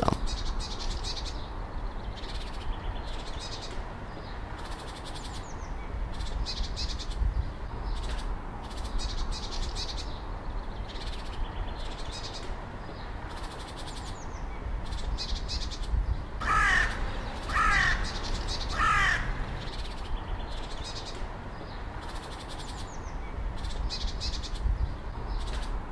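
A bird gives three loud calls about a second apart, two-thirds of the way through, over outdoor background of faint high chirps and a low wind rumble.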